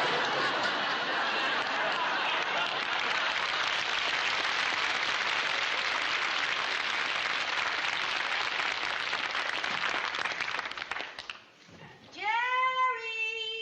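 Studio audience applauding, steady for about eleven seconds and then dying away. Near the end, a single drawn-out cry that rises in pitch and then holds.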